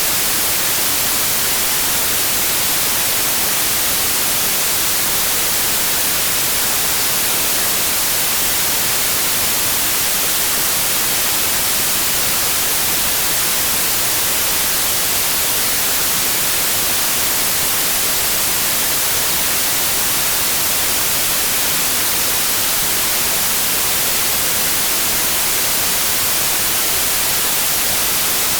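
Steady white noise: an even, unchanging hiss with no tones or breaks, played as a sleep aid for colicky babies.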